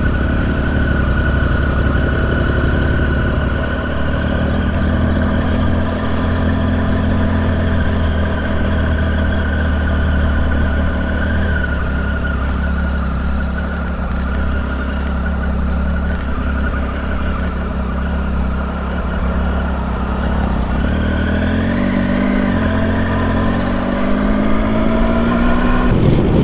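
Triumph Tiger Sport 1050's three-cylinder engine running steadily as the motorcycle rides along. Near the end the engine note rises and falls a few times.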